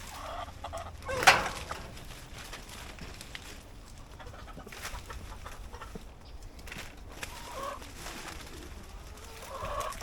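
Domestic chickens clucking in short calls, with a brief loud sharp sound about a second in.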